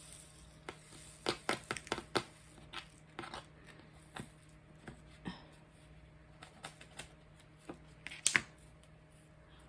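Scattered light clicks and taps from small objects being handled, a few close together about a second in and a louder one near the end, over a faint steady room hum.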